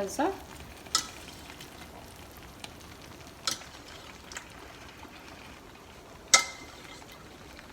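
Faint sizzling from the pot of creamy macaroni sauce just taken off the heat, with a few sharp metal clinks of cookware, the loudest and ringing about six seconds in.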